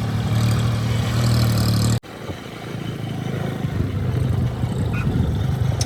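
Homemade tractor's engine running steadily as it drives. The sound cuts off abruptly about two seconds in, then comes back as a rougher, less even engine sound that grows louder.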